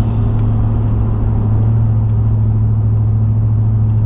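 An engine running steadily, giving a constant low hum over rumble, like a vehicle under way.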